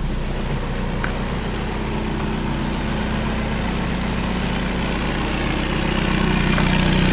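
1988 Toyota pickup's engine idling steadily, cold, just after a hard cold start. It gets a little louder near the end.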